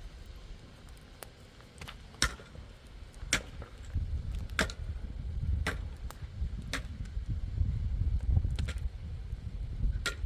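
Hammer blows on nails into wood: sharp knocks about once a second, seven in all, over a low rumble.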